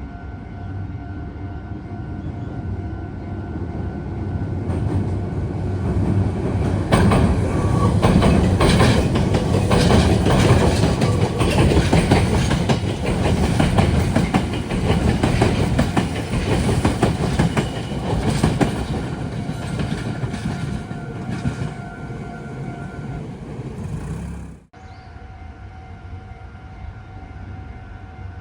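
A Meitetsu electric train passes through a junction: a rumble that builds, then rapid wheel clatter over the rail joints and points, then a fade. A level-crossing warning bell rings steadily underneath. The train noise cuts off suddenly near the end, leaving only the bell.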